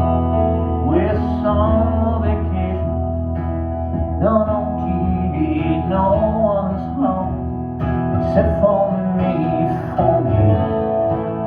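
Live band music: a voice singing over guitar, with a strong bass underneath.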